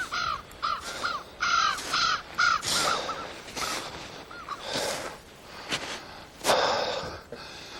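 A bird calling in a quick series of short, harsh, arched calls that thin out after about three seconds. A louder, noisier sound comes about six and a half seconds in.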